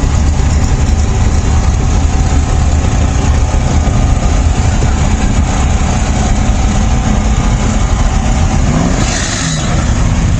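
A vehicle engine running with a heavy, steady low rumble. About nine seconds in it briefly drops in level and rises in pitch.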